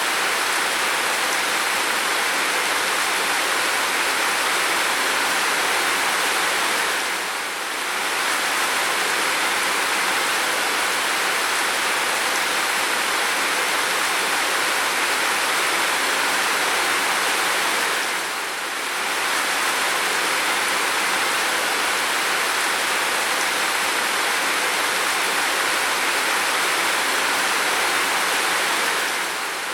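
Heavy rain falling steadily, an even hiss that dips briefly in level three times, about eleven seconds apart.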